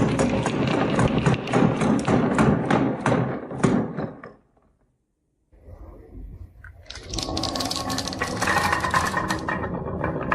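Marbles clattering down a wooden marble run: a quick run of knocks, about a second of silence a little before the middle, then a fast, steady rattle of marbles rolling over the track.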